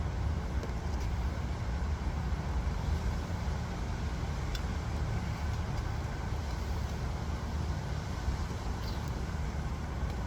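Steady low rumble with a hum in it, like machinery or traffic running on, and a faint click about four and a half seconds in.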